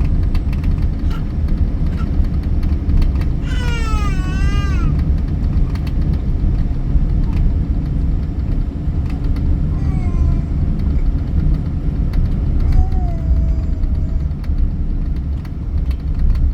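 Steady low rumble inside a jet airliner's cabin. A young child's brief wavering cry comes about four seconds in, with softer short vocal sounds later.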